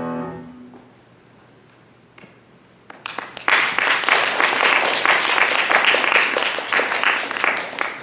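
The piano's final chord dies away, then after about two seconds of quiet a small audience breaks into applause, which fades near the end.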